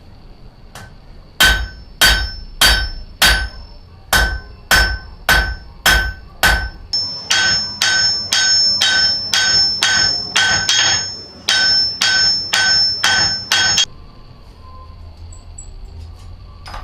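Blacksmith's hammer striking metal on an anvil in a steady rhythm, each blow ringing out. The blows quicken about halfway through and stop suddenly near the end.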